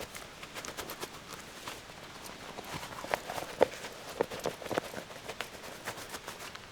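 Footsteps: an irregular run of steps with sharp clicks and knocks, the loudest about three and a half seconds in.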